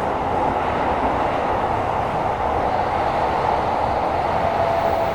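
Tokyo Metro 17000 series subway train running between stations, heard from inside the car: a steady, loud rumble of wheels on rail. A faint thin tone comes in near the end.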